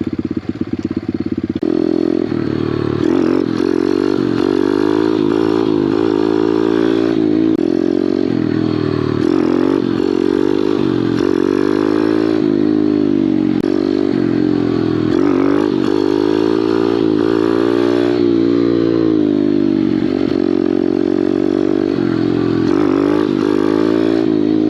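Small Kawasaki pit bike engine being ridden, its revs steady for the first couple of seconds and then repeatedly rising and falling as the throttle is opened and chopped.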